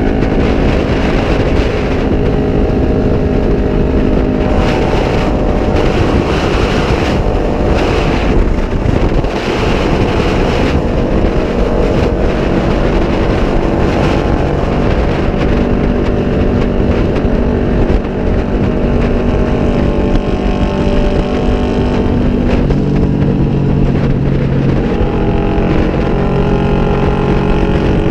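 Kawasaki Vulcan 500's parallel-twin engine running through straight drag pipes at highway speed, heard from the rider's seat with wind rushing over the microphone. The engine note holds steady, then drops lower about three-quarters of the way through.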